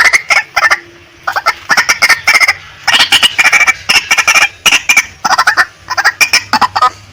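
Female white-breasted waterhen calling: quick runs of short, loud, repeated notes, with brief pauses between the runs.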